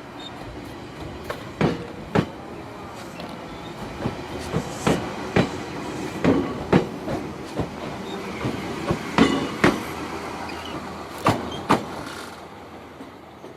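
A train rolling slowly in reverse over rail joints, its wheels clacking in pairs about half a second apart every one to three seconds over a steady rumble.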